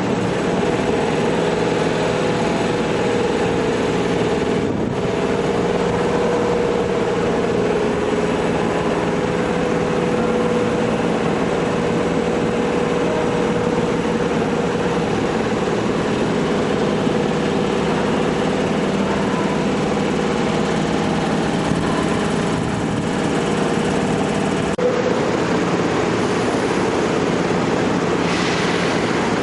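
Seibu N101-series electric train's air compressor running steadily to build up air pressure after one pantograph has been raised: a continuous mechanical drone with a steady hum. There is a click about 25 seconds in and a brief hiss near the end.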